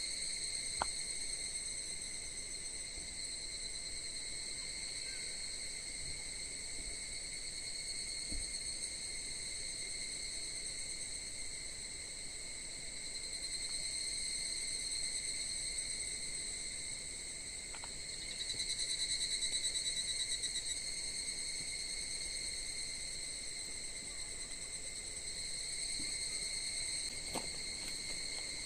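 Steady chorus of crickets or similar insects trilling high and continuously, with one louder, faster-pulsing trill for a few seconds past the middle. A few faint clicks stand out now and then.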